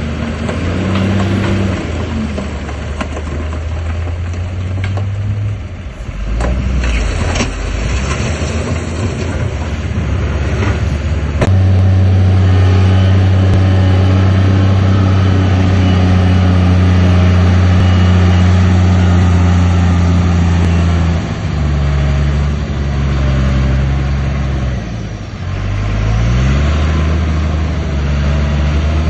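Heavy earthmoving machine's diesel engine running under changing load, its pitch stepping up and down, loudest and steadiest in the middle and rising near the end. A couple of sharp knocks come in the first half.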